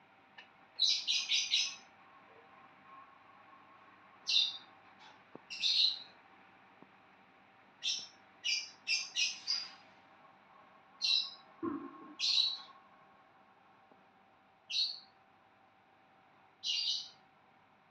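A bird chirping in short, high calls, some single and some in quick runs of four or five, over a faint steady hum.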